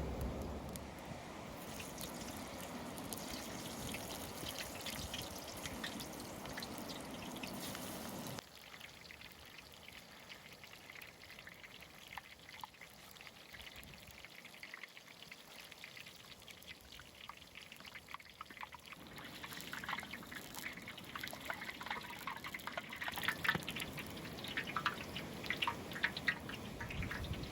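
Liquid pouring steadily for about eight seconds, then stopping abruptly. After a quieter stretch, a light crackling of many small ticks sets in and grows busier toward the end.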